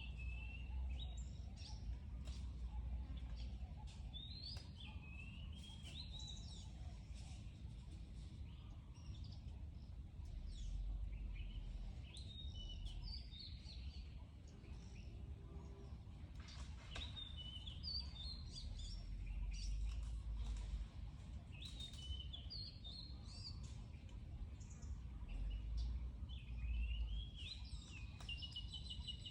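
Birds singing in repeated short chirping phrases, with a quick trill near the end, over a steady low outdoor rumble.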